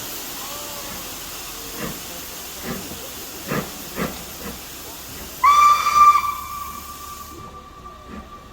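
Steam locomotive blowing off steam with a loud hiss and a few short knocks, then its steam whistle sounds about halfway through, loud for about a second before carrying on more softly; the hiss cuts off near the end.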